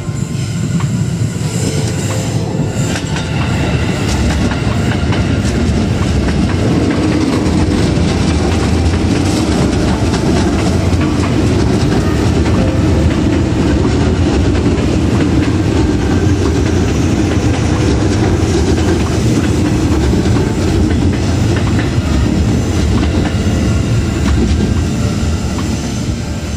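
KRL commuter electric train rolling past at low speed on a sharp curve. It gives a steady loud rumble, with its wheels clacking over the rail joints.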